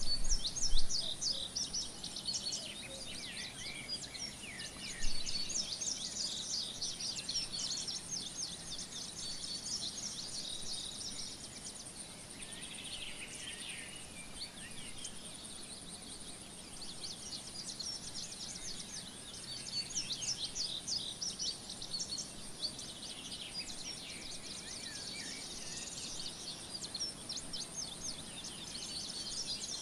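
Several songbirds singing and chirping in quick, overlapping phrases, over a faint steady high hiss. A few low thumps come in the first second and one at about five seconds.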